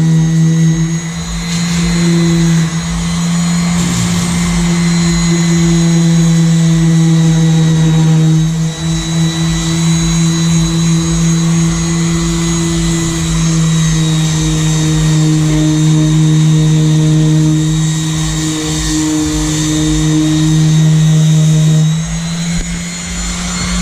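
Electric power sander running steadily at full speed on the boat's hull, a constant motor hum with a high whine, dipping slightly now and then as it is pressed against the surface.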